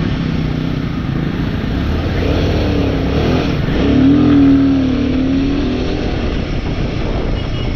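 Royal Enfield motorcycle engine running on the move through city traffic, with road and wind noise. Around the middle a louder, slightly wavering engine note swells and fades over about two seconds, as another vehicle passes close by.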